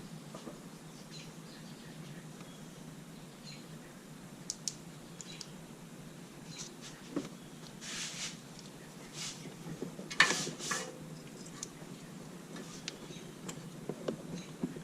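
Scattered light clicks and scrapes of hand tools and parts being handled during spark plug and wire work, with a sharper clack about ten seconds in, over a steady low hum.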